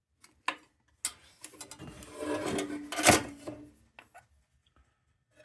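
Light knocks, then rubbing and scraping of objects being handled on a workbench, loudest about three seconds in.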